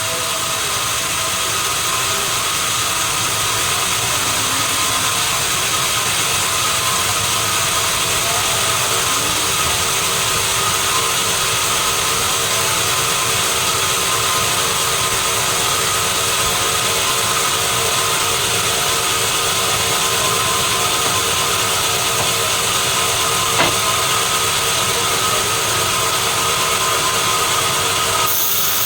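Sawmill machinery running steadily with a constant mechanical whine. A single sharp click comes about 24 seconds in.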